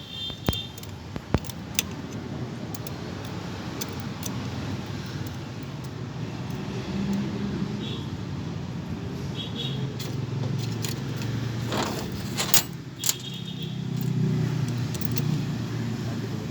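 Metal tools and small metal parts clicking and clinking in hand work on a starter motor, with a few sharper knocks about half a second, a second and a half, and twelve to thirteen seconds in. A steady low rumble of road traffic runs underneath.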